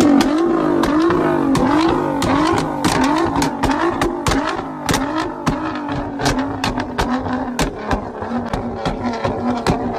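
Nissan GT-R's twin-turbocharged engine being revved in quick repeated blips, with sharp exhaust pops and crackles throughout; the revs settle into a steadier note in the second half.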